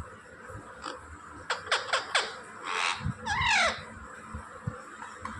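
Pet parrot calling: a few quick falling chirps about a second and a half in, then a short harsh burst and a falling squawk just past the three-second mark.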